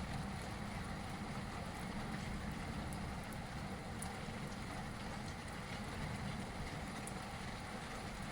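Steady rain falling during a thunderstorm, with a low rumble underneath that eases off slightly and a few faint drop ticks.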